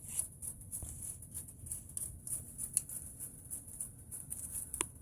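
Faint, irregular clicks and taps of hand tools on a brake caliper while the brake line bolt is tightened, with one sharper click near the end.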